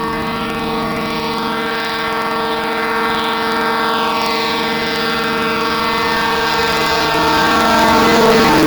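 Goods train locomotive horn held in one long, loud blast. Its pitch drops near the end as the locomotive goes past.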